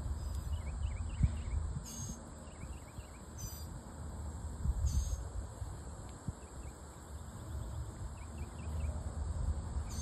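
Outdoor garden ambience: a fluctuating low wind rumble on the microphone, with a few short harsh bird calls about 2, 3½ and 5 seconds in, faint repeated high chirps, and a steady high hum in the background.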